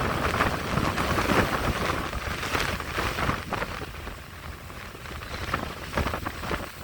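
Strong squall-line wind gusts buffeting the microphone with rain, rising and falling and easing off briefly in the middle before picking up again.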